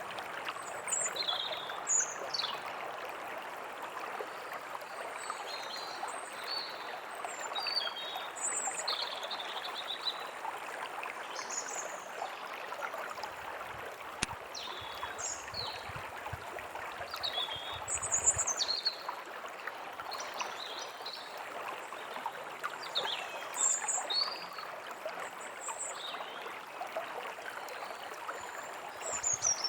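A forest stream running steadily, with small songbirds chirping and giving quick falling whistles over it throughout.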